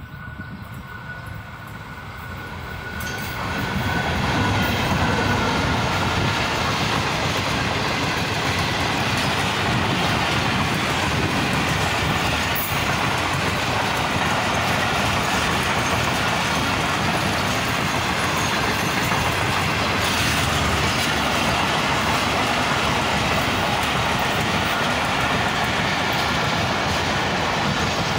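Pakistan Railways Khyber Mail express train passing at high speed close by. Its sound swells quickly as the diesel locomotive arrives about three seconds in, then holds as a loud, steady rush of the passenger coaches rolling past on the rails.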